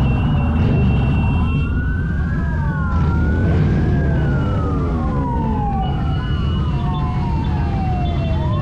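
Several emergency-vehicle sirens wailing together, each slowly rising and falling in pitch and overlapping the others, over a steady low engine rumble.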